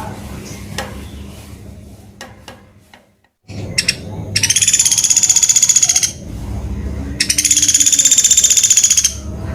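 Sunda pygmy woodpecker giving two high, rapid trills of about two seconds each, the second a second after the first.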